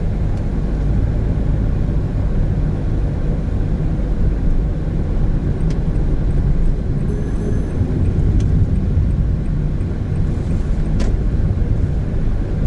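Steady in-cabin drone of a 2017 Honda N-BOX Custom's 660 cc turbo engine and tyre and road rumble while driving, with a few faint clicks in the second half.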